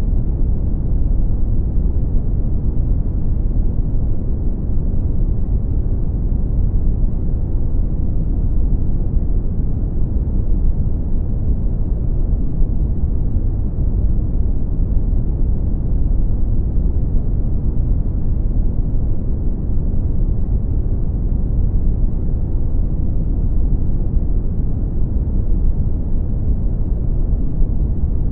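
Brown noise: a steady, deep rumbling hiss with most of its weight in the bass, fading away in the highs, unchanging throughout.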